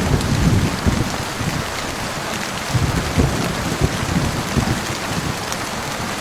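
Heavy rain falling with a steady hiss, with low thunder rumbling through it in two spells, in the first second and again around the middle.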